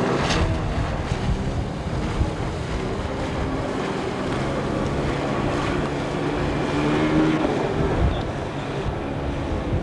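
Boat motor running steadily, its pitch wavering slightly, with wind buffeting the microphone and water rushing past the hull.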